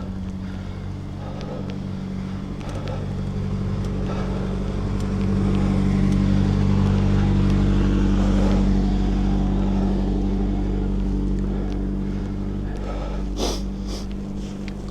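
A motor vehicle's engine hums at a steady pitch. It grows louder toward the middle and then fades, with a short click near the end.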